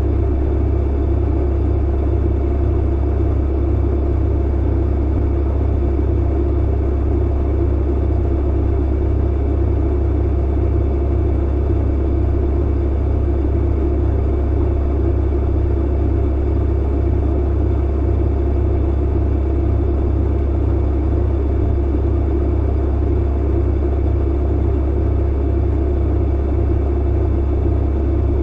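Tumble clothes dryer running: a steady low drone with a strong hum underneath and a few faint constant tones, unchanging throughout.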